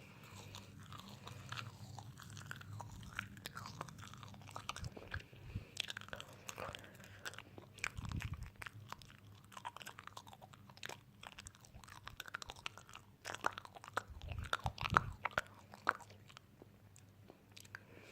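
Close-miked crunching and chewing of crunchy food, with many sharp crunches coming irregularly, thickest around the middle and again near the end.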